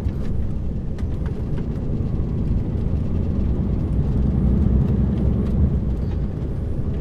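Lorry engine and road noise heard from inside the cab while driving, a steady low rumble that builds a little in the middle, with a few light clicks and rattles.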